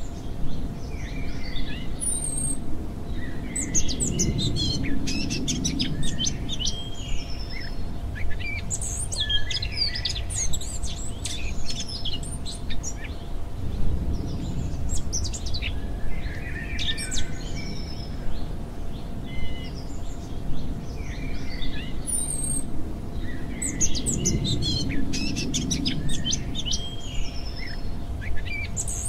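A nature-sounds birdsong track: several small birds chirping and trilling over one another in quick high calls, over a low background rumble that swells every ten seconds or so.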